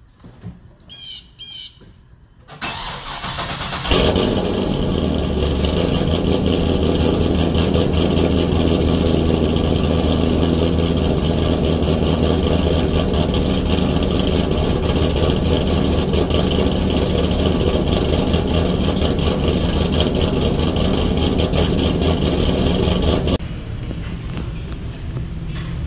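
C6 Corvette V8 being started: the starter cranks for about a second before the engine catches loudly, then it settles into a steady, loud idle. Near the end the sound drops to a quieter level.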